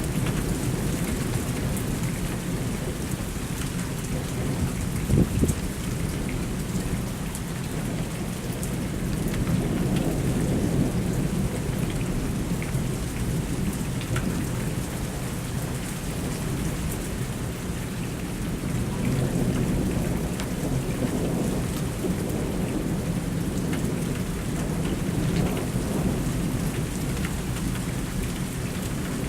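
Steady rain with low rolling thunder that swells and fades a few times. A short loud knock about five seconds in.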